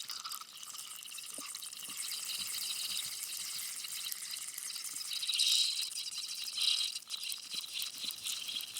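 Steady high hiss of white noise with a flickering, water-like texture. It swells louder about five and a half seconds in, and again a second later.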